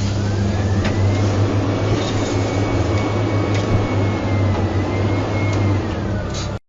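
Steady vehicle driving noise, a low hum with road rumble, as picked up by a dash camera, with a faint thin high tone over it; it cuts off abruptly near the end.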